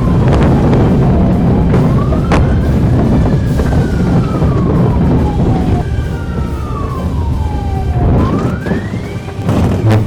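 Emergency-vehicle siren wailing: one tone sweeping slowly up and down, a few seconds per rise and fall, over steady low rumble. A sharp knock comes near the end.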